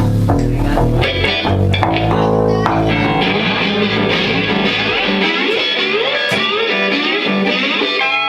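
Live garage rock band playing loud, with electric guitar over bass guitar and a few sharp hits early on. About five seconds in the bass drops out and the guitar plays bending, sliding notes.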